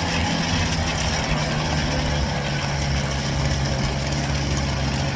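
Small 49cc two-stroke gas scooter engine running at a steady pitch under way, with a steady hiss over it.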